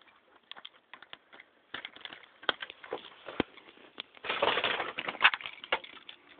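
Irregular clicks and rustling handling noise, with a louder stretch of crackling and crunching about four seconds in.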